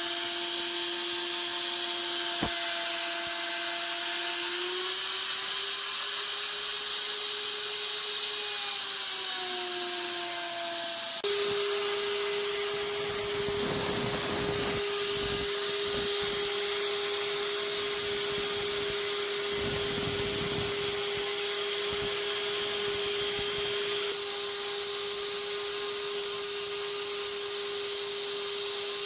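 An electric woodworking power tool's motor running with a steady whine and hiss, its pitch dipping and recovering as it is loaded. The sound changes abruptly about a third of the way in, then holds a steady pitch.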